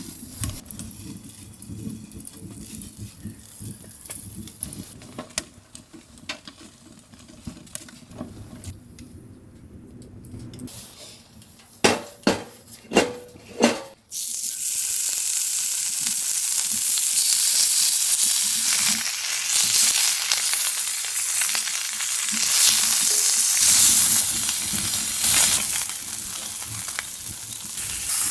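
A few faint clicks, then four sharp knocks about halfway through. Food then goes into a hot pan and starts sizzling suddenly, and the frying carries on steadily.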